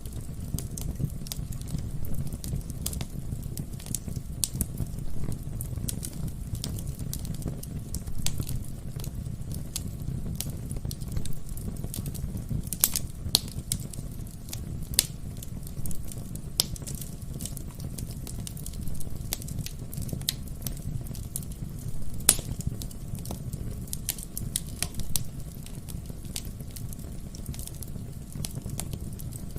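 Wood fire burning in a fireplace: a steady low rumble of the flames with frequent sharp crackles and pops from the burning logs, a few of them louder, the loudest about three quarters of the way through.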